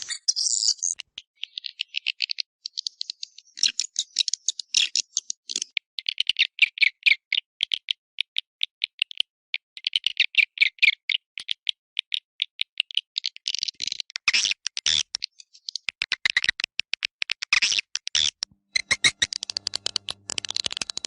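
Swiftlet calls from a swiftlet-house lure recording: rapid, high-pitched chittering trills in repeated bursts of a second or two, separated by short gaps.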